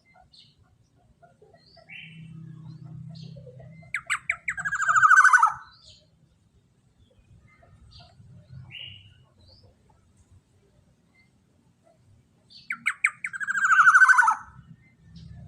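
Black-naped oriole (kepodang emas) giving two loud calls several seconds apart. Each is a few quick stuttering notes running into a long, harsh note that falls in pitch. Faint short chirps come between them.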